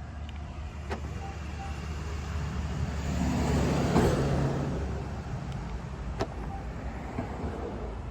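A car passing by, its noise rising to a peak about four seconds in and then fading, over a steady low hum. Two sharp clicks sound, one about a second in and another about six seconds in.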